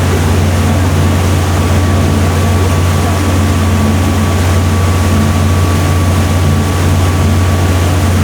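Sightseeing boat's engine running steadily, a low even hum with a thin steady whine above it and a wash of noise over the top.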